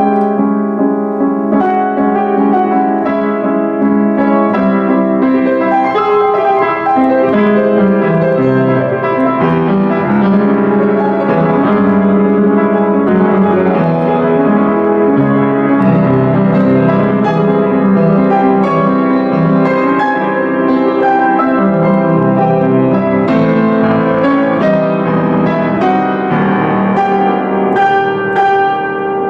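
Solo piano playing a continuous passage of full, sustained chords with frequent new notes.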